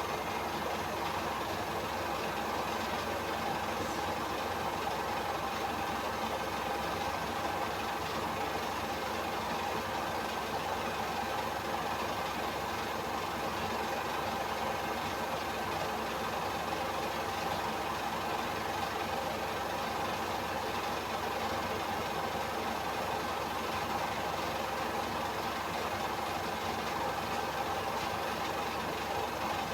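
Samsung AddWash WW70K5410WW front-loading washing machine on its spin cycle, the drum turning at a steady speed. There is an even whirring rush with a steady motor whine.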